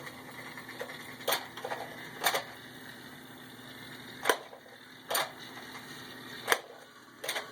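Plastic toy train set pieces clicking and clacking, about six sharp knocks at irregular intervals, over a faint steady hum.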